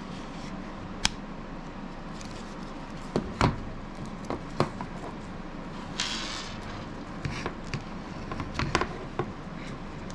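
Scattered clicks and taps from a plastic knife sheath and Tek-Lok belt clip being handled and fitted together, with a brief rustle about six seconds in, over a steady low room hum.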